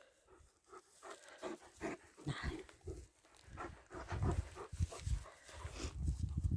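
German Shepherd dog panting and snuffling close by, in irregular breaths that grow louder toward the end.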